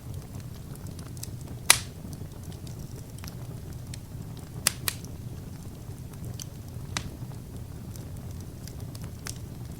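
Wood fire burning with a steady low rush and sharp crackles and pops: a loud pop a couple of seconds in, a quick pair near the middle, and a few fainter ones later.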